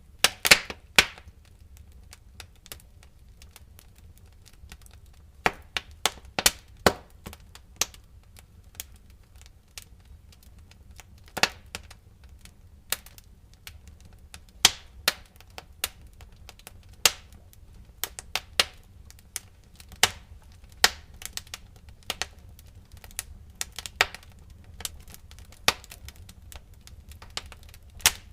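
Wood fire in a fireplace crackling: irregular sharp pops and snaps, with a cluster of louder ones at the start and others scattered throughout, over a low steady rumble.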